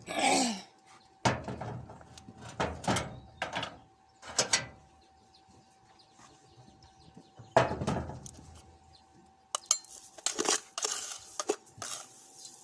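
Scattered knocks and clatter of objects being handled, with a short falling squeak right at the start and a faint steady hum underneath.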